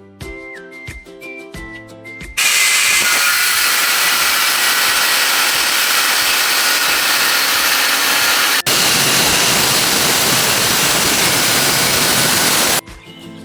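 Loud, steady, harsh metalworking noise on iron. It starts abruptly about two seconds in, drops out for a split second partway through, and stops abruptly shortly before the end, with background music before and after.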